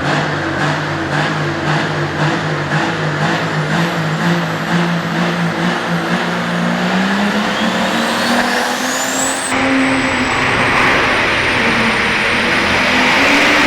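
Diesel pulling tractor running hard, with a turbocharger whine rising steeply in pitch over about three seconds. At its top the sound shifts suddenly to a louder hiss carrying a steady high whistle.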